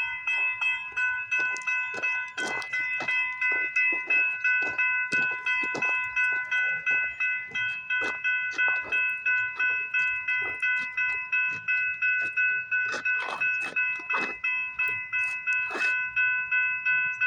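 Railroad level crossing warning bell ringing with the gates down, a steady, even clang about two and a half strikes a second.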